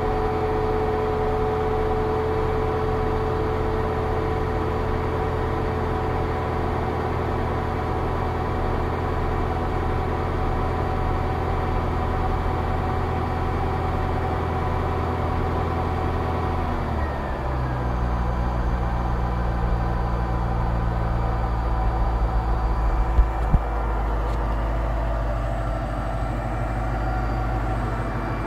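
Mercedes-Benz SL500 V8 engine idling steadily, heard from the open engine bay. About two-thirds of the way through, the idle speed drops noticeably and then holds at the lower, steady idle. Two brief knocks come a few seconds later.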